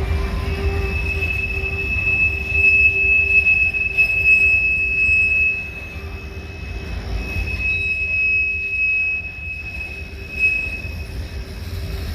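Freight train cars rolling past with a low rumble and a steady high-pitched wheel squeal that fades and returns partway through.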